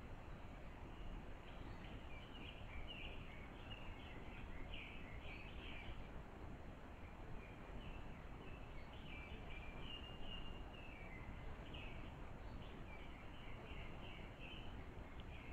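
Forest songbirds calling: many short, high chirps in quick clusters, over a steady low background hiss.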